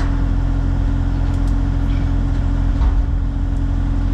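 Excavator's diesel engine running steadily while it lowers a tank on a chain, with a low thump about three seconds in.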